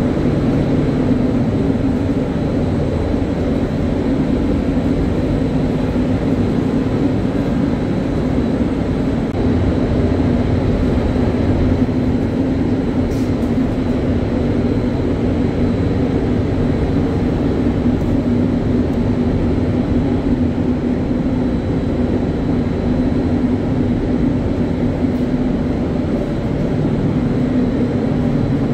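Steady, loud mechanical drone of air-handling fans, typical of a paint spray booth running, with a constant low hum and rushing air.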